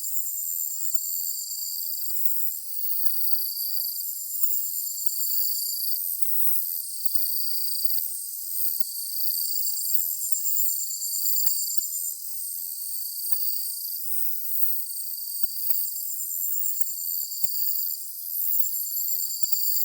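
Chorus of singing insects on a summer evening: several overlapping high-pitched trills at different pitches, some steady and some coming in repeated phrases a second or two long.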